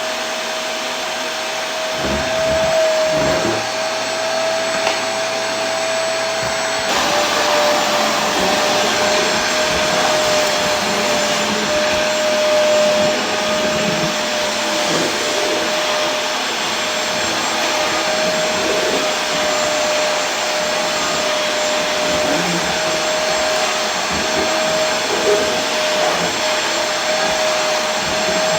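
Vacuum cleaner motor running steadily: a constant whine over a rushing airflow. About seven seconds in, the whine drops slightly in pitch and the rush turns a little brighter.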